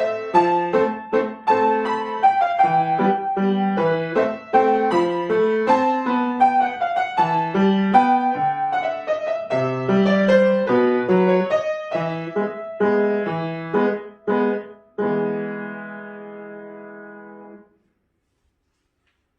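Piano playing the closing bars of a piece: a run of notes, a few short chords, then a final chord left ringing that is cut off suddenly near the end.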